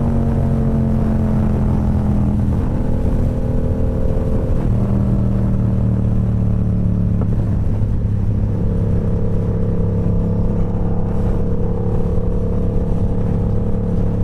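Motorcycle engine running steadily at highway speed, with wind and road rumble. The engine note slides lower and settles at a new pitch twice, at about four and a half and eight and a half seconds in.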